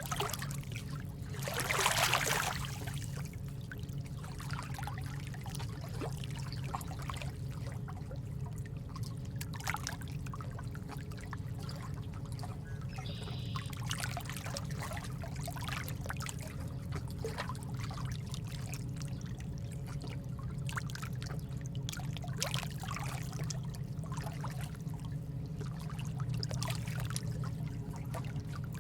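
Rain ambience: steady trickling and dripping water over a low, even rumble, with a brief louder swell about two seconds in.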